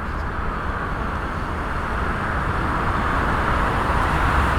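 Boeing 777F freighter's twin GE90 turbofan engines at take-off power: a steady jet rumble and hiss that grows slowly louder.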